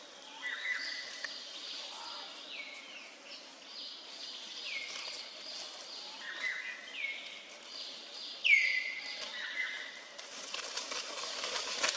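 A series of high-pitched animal calls, each a squeal falling in pitch and some ending in a held note, repeated every second or so over a steady outdoor hiss. A louder hissing noise swells in near the end.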